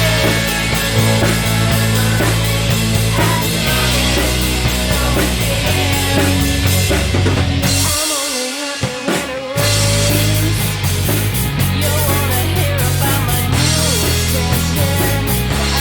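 Rock band playing live, instrumental with no vocals: drum kit and bass under pitched lead lines that bend up and down. About eight seconds in, the bass and drums drop out for a moment before the full band comes back in.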